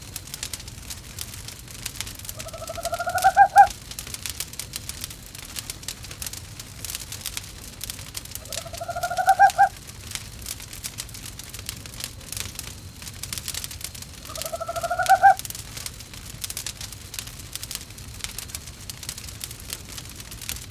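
An owl calling three times, about six seconds apart: each call is a bit over a second long, rises slightly in pitch and grows louder before stopping sharply. A wood fire crackles steadily underneath.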